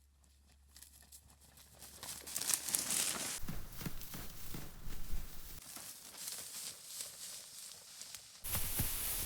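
Irregular rustling and crackling, growing louder over the first few seconds, then a sudden change near the end to a steady hiss.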